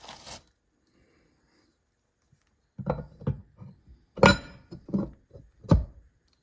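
A run of sharp metal knocks and clinks, about eight of them starting a little under three seconds in, the loudest with a brief ring: transmission parts being knocked and worked on a bench.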